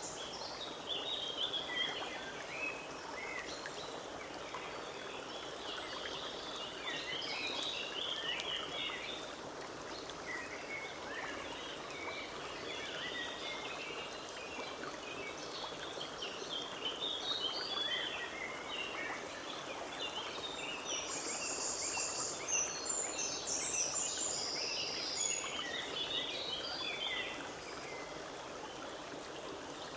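Forest stream running steadily, with small birds singing many short chirping phrases over it, and a higher rapid trill for a few seconds about two-thirds of the way through.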